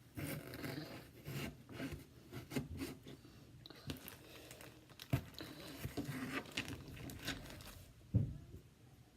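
Kitchen prep handling: irregular rustling and scraping with sharp knocks, the loudest knock about eight seconds in, as potatoes are handled and cut with a knife.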